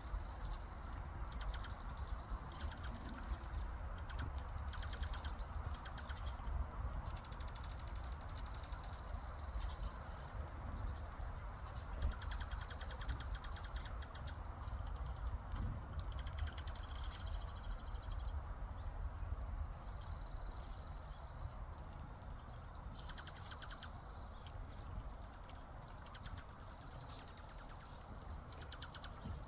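Birds trilling over and over, short high rapid-pulsed calls about a second long every few seconds, over a steady low rumble.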